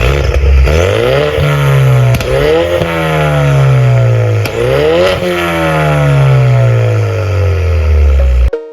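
Ford Mustang GT's 5.0 V8 revved through a new stainless full exhaust system with a Y-pipe and valved dual tips: the pitch climbs quickly and falls away slowly, three or four times. It cuts off suddenly near the end.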